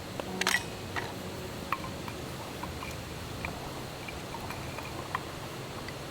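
Wood campfire crackling: a steady hiss with scattered sharp pops, a quick cluster of them about half a second in.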